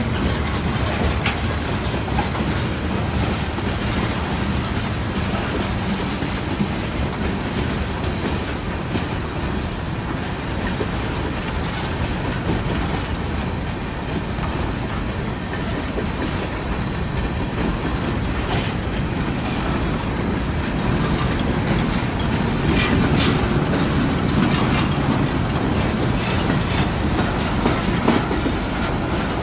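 Norfolk Southern freight cars rolling past close by: a continuous rumble of steel wheels on the rails, a little louder in the last several seconds.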